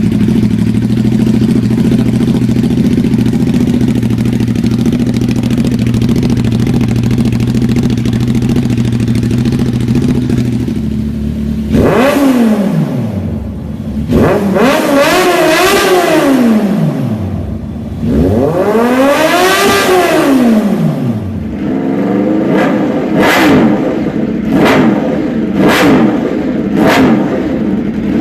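Motorcycle fitted with an SC Project CRT slip-on exhaust, idling steadily and then revved hard three times, each rev rising and falling. In the last few seconds it is blipped in a quick run of short revs.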